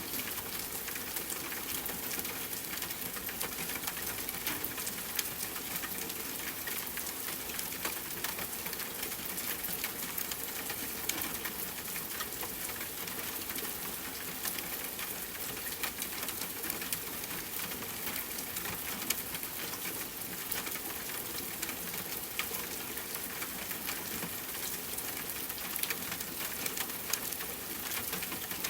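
Steady rainfall, an even hiss of rain with the patter of individual drops.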